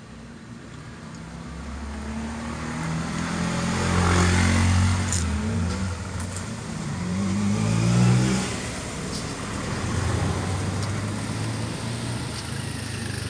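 Motor vehicle engines passing close by: the sound grows to a peak about four seconds in, rises again about eight seconds in with the pitch gliding, then settles to a steadier hum.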